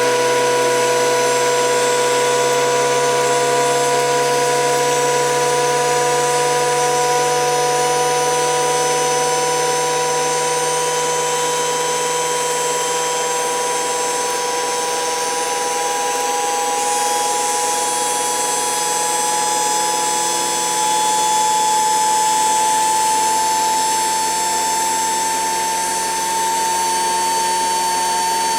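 A HUSTOO 775 DC motor driving a toy washing machine's drum through a pulley, running with a steady whine that climbs slowly in pitch as it gradually speeds up.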